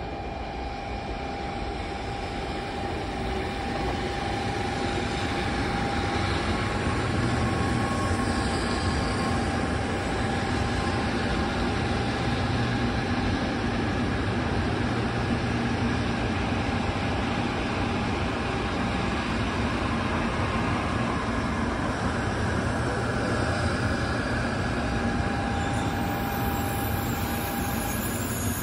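Sanyo Shinkansen trainsets, a 700 series Rail Star and an N700 series 7000, rolling slowly through the station: a steady rumble of wheels on rail with a steady whine, growing louder over the first few seconds.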